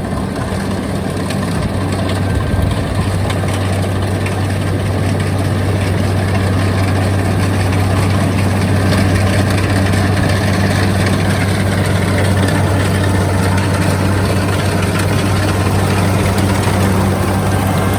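A farm machine's diesel engine running steadily and loudly, swelling a little over the first few seconds.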